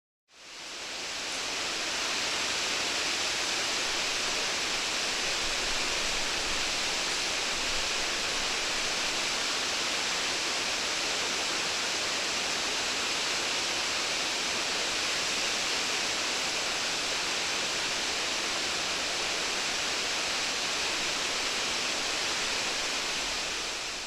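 Waterfall rushing in a steady roar of falling water. It fades in just after the start and fades out at the end.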